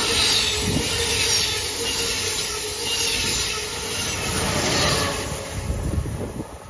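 Amtrak Acela Express trainset passing close at speed: a steady rush of wheels on rail and air, with a steady mid-pitched tone running through it. It fades near the end as the rear power car goes by.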